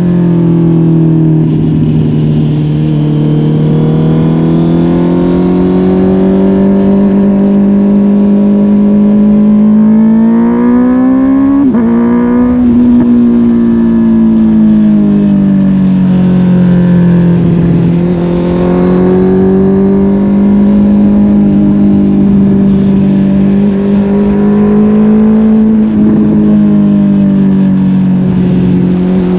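Honda CB650R's inline-four engine through a MIVV GP PRO Carbon aftermarket exhaust, running under gentle throttle. The revs climb and then drop suddenly about twelve seconds in, and rise and fall gently the rest of the time.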